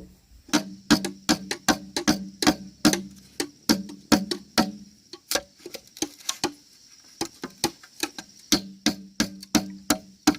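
Repeated hand-tool blows on wood, hammering or chopping, about three sharp strikes a second with a short low ring after each. The strikes thin out for a couple of seconds midway, then resume.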